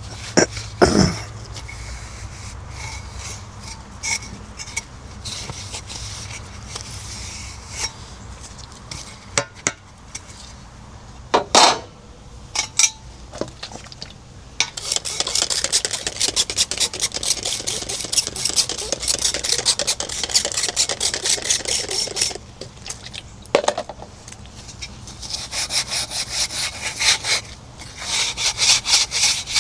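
Hand scrubbing of a refrigerator surface in rapid back-and-forth strokes, in two long spells, with a few sharp knocks earlier on.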